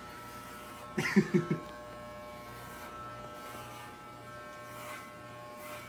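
Electric hair clippers running with a steady buzz as they cut hair close to the scalp. A short vocal sound breaks in about a second in.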